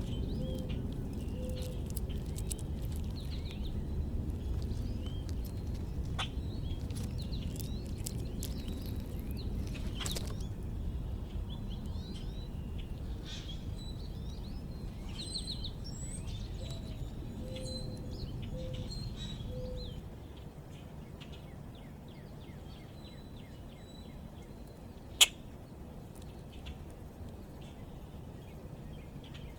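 Small backyard birds chirping and calling in many short, high notes over a steady low background rumble that drops off about two-thirds of the way through. One sharp click sounds near the end.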